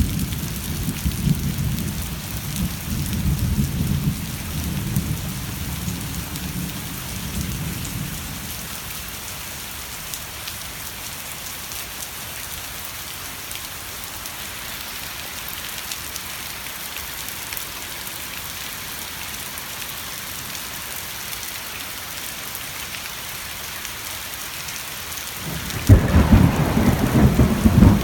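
Steady rain falling during a thunderstorm. Rolling thunder rumbles through the first several seconds and dies away, leaving only the rain. A sudden loud clap of thunder comes near the end.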